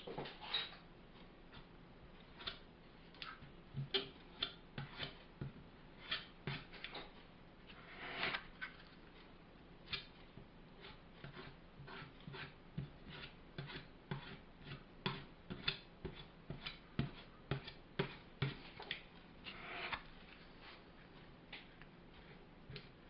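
Filler knife scraping and tapping while spreading filler along the edge of a shelf board: irregular sharp clicks and taps, with a longer scrape about eight seconds in and again near twenty seconds.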